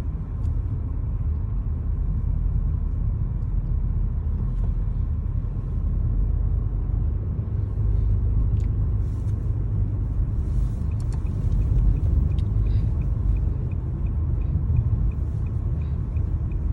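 Steady low rumble of a car driving, heard from inside the cabin. A faint, quick, regular ticking comes in about halfway through.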